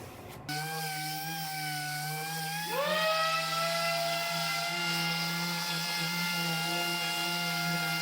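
A power tool's motor whirring, starting suddenly, then spinning up to a higher speed about three seconds in and running steadily.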